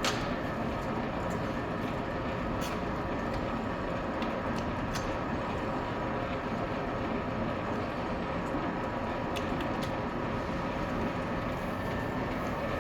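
LeBlond Regal 15x42 engine lathe running, its motor and geared headstock giving a steady mechanical hum with a few faint ticks.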